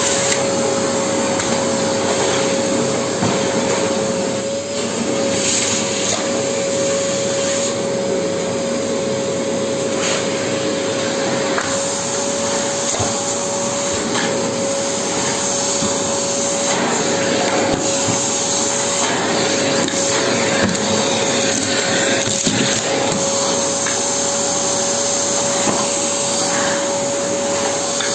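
Vacuum cleaner running steadily with a constant motor whine and rushing airflow, sucking up Lego pieces, which click and rattle now and then as they are drawn in.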